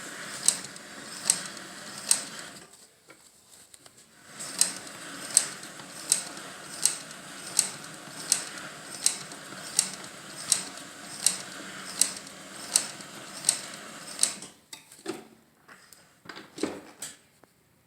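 Leather patch sewing machine stitching slowly, with one sharp click per stitch about every three-quarters of a second. The stitching pauses for a couple of seconds about three seconds in, and near the end the clicking stops and gives way to a few irregular knocks and handling sounds.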